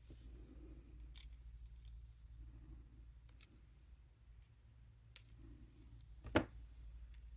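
Faint small clicks of jewelry pliers and metal jump rings being handled, a handful of separate clicks with the loudest about six and a half seconds in, over a low steady hum.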